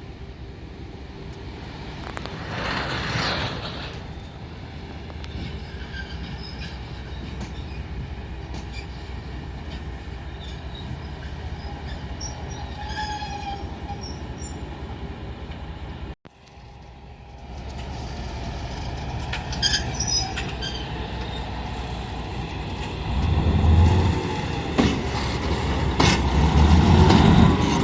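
Diesel rail vehicle moving slowly on shunting manoeuvres, wheels squealing on the rails over a steady engine rumble. There is a brief dropout a little past halfway, and near the end the engine rumble and squealing get louder.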